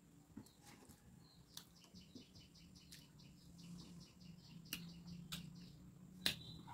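Faint, rapid chirping of a small bird in the background, with soft clicks and smacks of chewing and of fingers mixing rice on a metal plate; a sharper click about six seconds in is the loudest sound.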